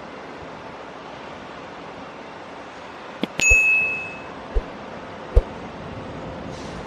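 A single bright metallic ding, like a small bell, about halfway through, ringing for about a second, over a steady rushing noise; a couple of short knocks follow.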